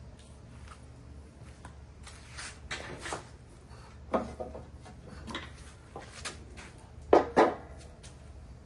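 Tools and parts being handled: scattered clicks and knocks, with two sharp knocks in quick succession near the end, over a low steady hum.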